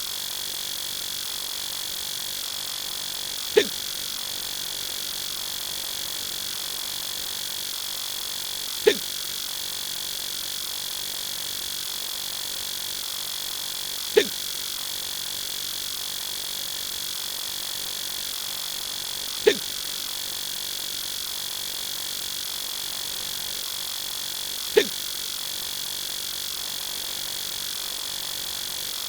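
Adult male hiccup sound effect, repeating five times at even intervals of about five seconds. Under it runs a steady hiss with a faint constant high whine.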